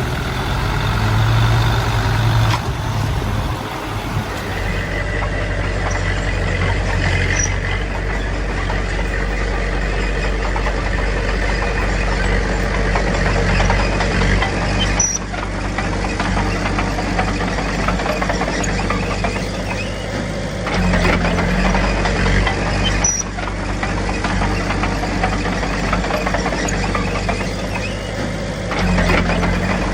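Heavy diesel engines of earthmoving machinery, a bulldozer and dump trucks, running steadily, with the engine note shifting abruptly a few times.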